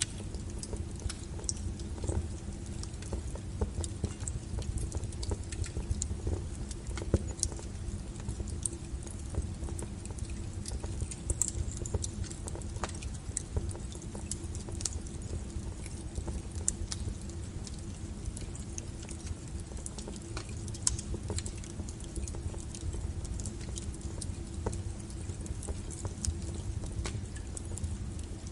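Firewood burning, with frequent irregular crackles and sharp pops over a low steady rumble of the flames.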